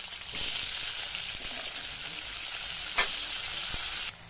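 Potato sticks and onion frying in hot oil in a kadai: a steady sizzle that grows louder about half a second in. The spatula knocks against the pan once, sharply, about three seconds in, and the sizzle drops suddenly to a faint hiss near the end.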